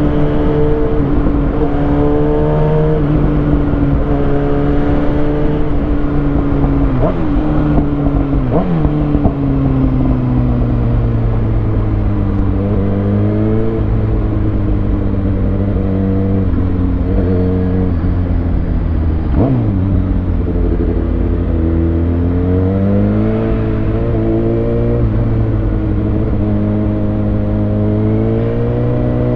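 Kawasaki Ninja ZX6R's inline-four engine through a Lextek SP7C carbon exhaust with de-cat headers, under way in traffic: the revs rise and fall, with the pitch stepping between gears and a few quick swoops up and down.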